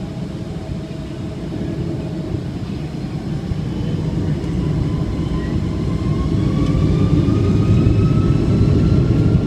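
Boeing 757-200's Rolls-Royce RB211-535E4B turbofans spooling up for takeoff, heard from inside the cabin: a deep rumble that grows steadily louder, with whining tones that start rising about halfway through.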